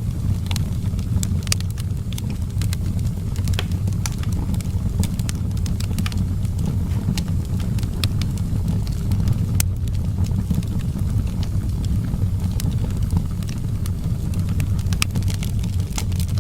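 Wood fire burning: a steady low rumble of flame with irregular sharp crackles and pops from the burning firewood.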